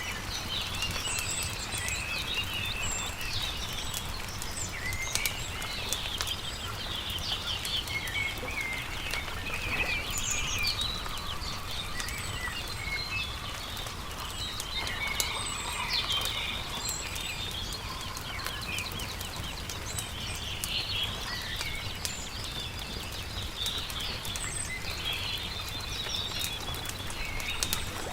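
Several songbirds chirping and singing throughout, over the irregular pops and crackles of a wood campfire, with a steady low rumble underneath.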